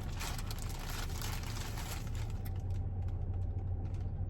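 Rustling and crinkling of packaging as a costume is handled: irregular light crackles, busy at first and sparser in the last second or so, over a steady low hum.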